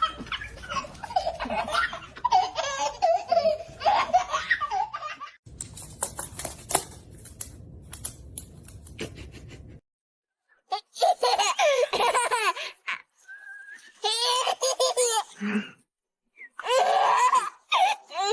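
Laughter in several bursts, the first long and the last three short, separated by a stretch of clicks and shuffling noise and a brief gap.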